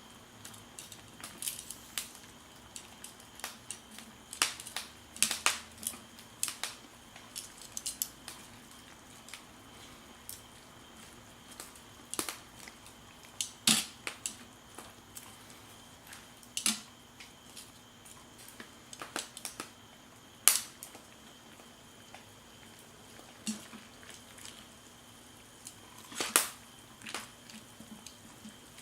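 Irregular clinks and taps of metal cookware and utensils being handled, some sharper and louder than others, over a faint steady hum.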